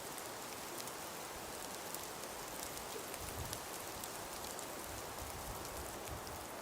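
Wind and falling snow: a steady hiss with many fine ticks of flakes landing. Soft low wind rumbles come a few times in the second half.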